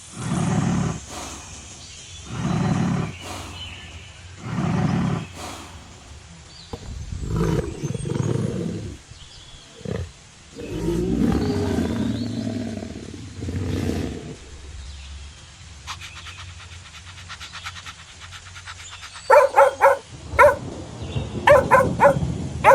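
Lion roaring: a run of short, low grunting roars about every two seconds, then longer, louder roars. Near the end a dog starts barking repeatedly.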